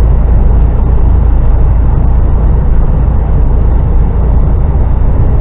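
HGV lorry's diesel engine and road noise heard inside the cab, a loud, steady low drone as the truck pulls up a long hill under load.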